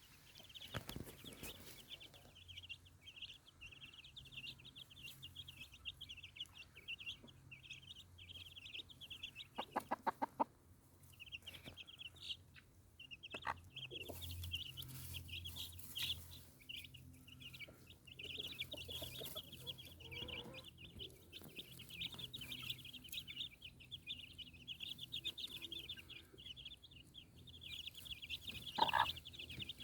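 Chicks peeping: a busy, near-continuous chorus of rapid high chirps, with a brief run of lower, pulsed calls about ten seconds in.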